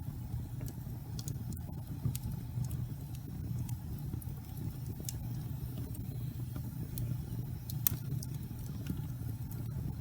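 Wood fire burning in a fireplace: a steady low rumble with scattered sharp crackles and pops, the loudest about eight seconds in.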